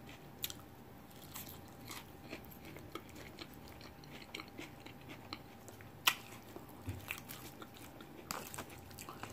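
Faint close-up chewing and crunching of a taco salad with fried tortilla shell, a run of small wet mouth clicks with a few sharper clicks, the loudest about six seconds in.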